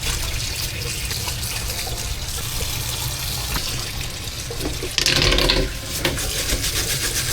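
Water running steadily from a tap into a sink, with a louder, splashier stretch about five seconds in.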